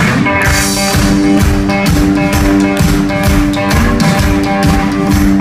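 Live blues boogie played on a three-string electric guitar: a steady repeated riff over an even drum beat.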